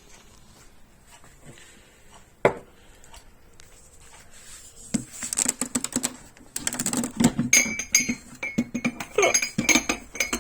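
Coffee cups and crockery being handled: a single knock a couple of seconds in, then clattering and ringing clinks of china through the second half.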